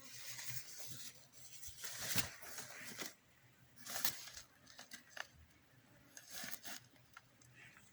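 A cat at play making scratchy, rustling scrapes in short bursts, the loudest about two and four seconds in.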